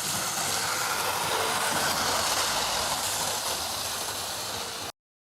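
A 1983 Hornby HST 125 model train running on its track: a steady whir from the old electric motor and the wheels. It cuts off abruptly near the end.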